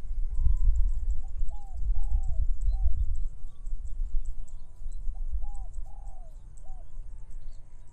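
A dove cooing a short three-note phrase twice, about four seconds apart, over a low rumble of wind on the microphone, with faint high chirping throughout.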